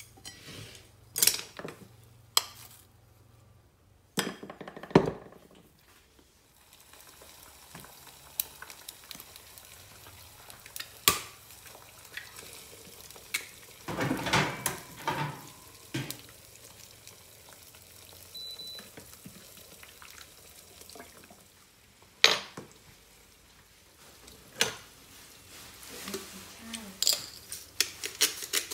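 Food frying in pans with a faint steady sizzle, broken by scattered sharp clicks and knocks of a spatula and dishes against cookware, with a busier run of clatter about halfway through.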